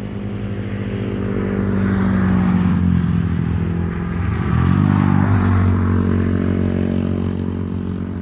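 A small engine running, growing louder over the first few seconds; its pitch dips and then rises again about four to five seconds in before settling steady.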